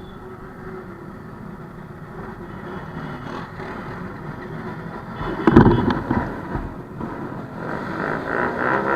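High-performance vehicle engines running and revving, with a sudden loud bang-like burst about five and a half seconds in, then rising revs near the end.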